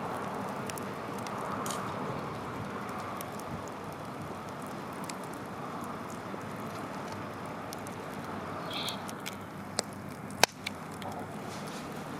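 Wood fire crackling: a steady rushing hiss with scattered small pops, and one sharp pop about ten seconds in.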